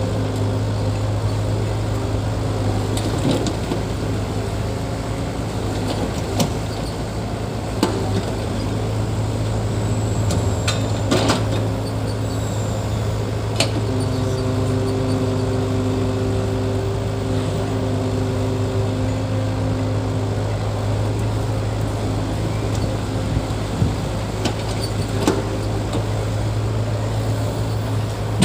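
Diesel engine of heavy earthmoving machinery running steadily, a deep drone with a few steady tones above it, and scattered sharp knocks.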